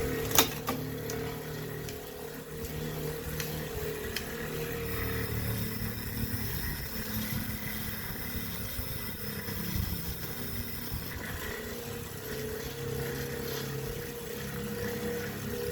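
Wahoo Kickr smart bike trainer running steadily, a low rumble under a held hum, the abnormal noise its owner calls bad. A single sharp click sounds about half a second in.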